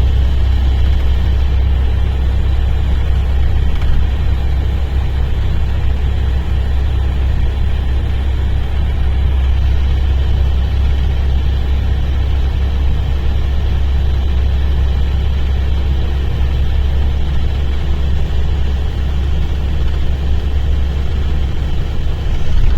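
Mercedes-Benz O-500RSD bus's diesel engine running with a steady deep rumble.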